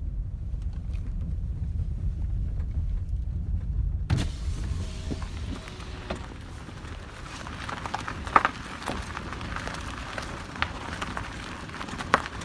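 Toyota Corolla E150 on the move with a low road rumble that changes abruptly about four seconds in to a quieter run. In that second part come a few sharp knocks from the running gear, the loudest roughly halfway through. This is the ringing knock heard only over uneven road, whose cause the owner has not found; he wonders about a CV joint or a strut.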